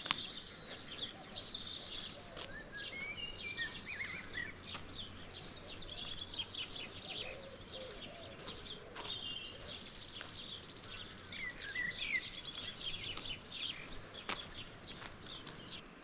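Several small birds chirping and singing in overlapping calls, with a fast trill about ten seconds in, over a steady background hiss.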